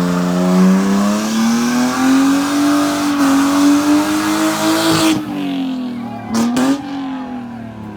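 A car engine held at high revs during a burnout, its pitch climbing slowly under a hiss of tyre noise. The revs drop off about five seconds in, and two sharp cracks follow a second later.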